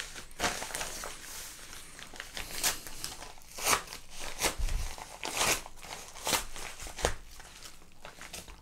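Padded paper mailer envelope being handled and torn open at one end: irregular crinkling and crackling of paper, with several sharper crackles as the flap is pulled back.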